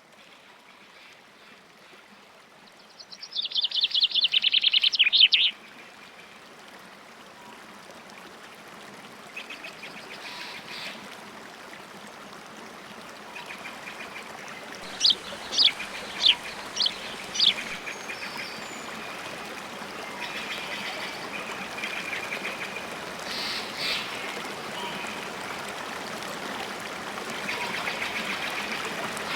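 River water flowing steadily, with bird calls over it. A loud rapid chattering call comes a few seconds in, five sharp high chirps come about halfway through, and fainter calls follow later.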